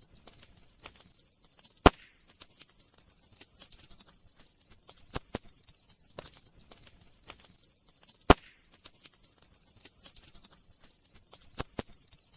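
Wood fire crackling: scattered small crackles and snaps over a faint hiss, with two sharp loud pops, one about two seconds in and one about eight seconds in.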